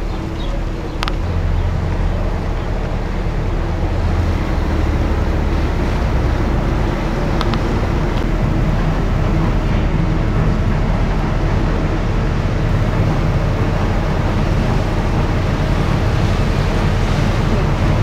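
Engine of a river tour boat running steadily under way, with water and wind noise over it and a couple of sharp clicks.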